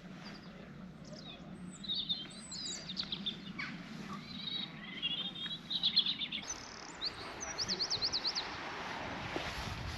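Small birds singing and chirping outdoors, with scattered high chirps and warbles and a quick run of repeated high notes about three-quarters of the way through, over a steady background hiss.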